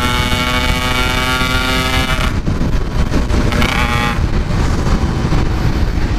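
Yamaha RX-King's 135cc two-stroke single-cylinder engine pulling at a steady pitch while riding. About two seconds in the throttle eases, and the engine note breaks up into wind and road rush, with a short rise again partway through. The rider says the engine still coughs a little and takes it to mean the main and pilot jets need going up.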